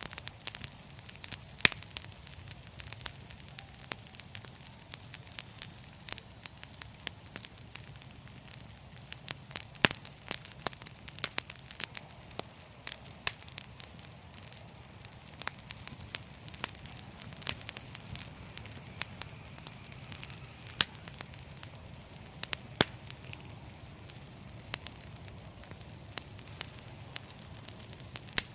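Wood fire in a fireplace crackling steadily, with frequent sharp, irregular pops and snaps over a low rumble of the flames.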